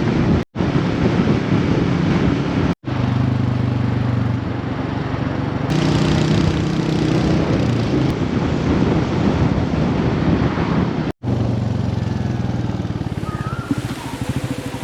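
Royal Enfield motorcycle engine running on the road, with wind noise on the microphone, broken by three abrupt cuts. Near the end the engine settles into a slower, even beat.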